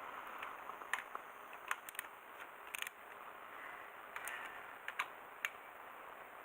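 Irregular sharp clicks and light taps, about half a dozen, over a faint hiss; no engine running.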